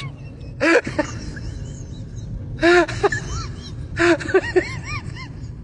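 Short cries like a baby whimpering, each rising and falling in pitch, in several bursts over a low steady rumble.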